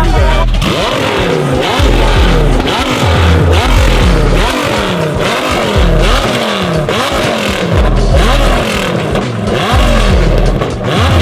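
Car engines revved hard over and over, the pitch sweeping up and dropping back roughly once or twice a second.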